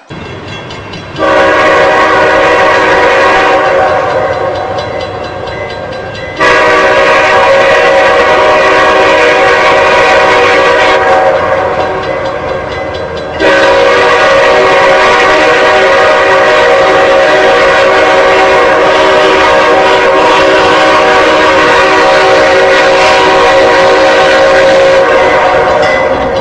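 Train horn sounding a chord in three long blasts, the last held for well over ten seconds, over the rumble of the moving train.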